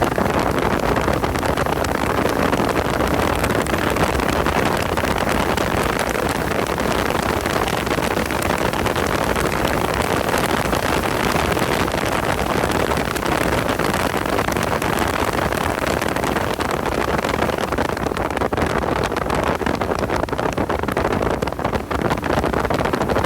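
Car driven at speed on a race track: a steady mix of engine, tyre and wind noise with no clear changes in pitch.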